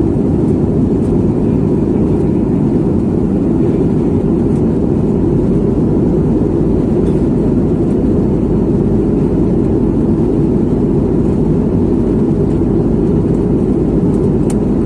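Steady low rumble of a jet airliner heard from inside the cabin, holding level throughout with no change in pitch.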